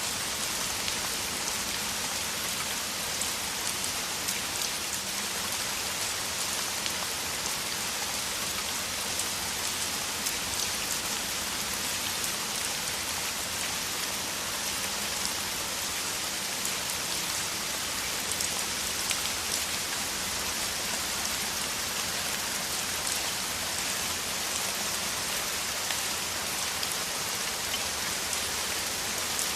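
Heavy rain falling steadily: a dense, even hiss of drops, with fine ticks of single drops within it.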